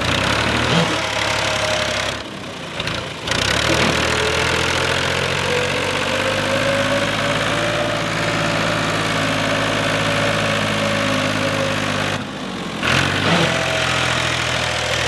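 Fiat 480 tractor's diesel engine running steadily, with a faint whine that rises and falls slightly in pitch; the sound breaks off briefly twice.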